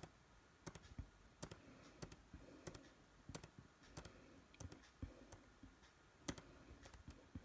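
Faint, quick clicks of a computer's controls, about one or two a second and some in close pairs, as photos are clicked through.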